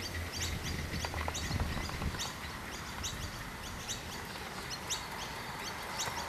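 Small birds chirping: a steady run of short, high chirps, several a second. A faint low hum is under them in the first two seconds.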